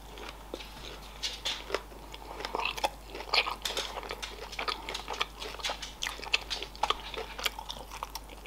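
A person chewing a mouthful of sushi roll with the mouth closed: an irregular, continuous run of short mouth clicks.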